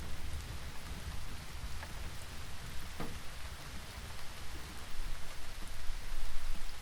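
Steady rain falling, with a few sharper taps of individual drops and a low rumble of thunder underneath that grows louder near the end.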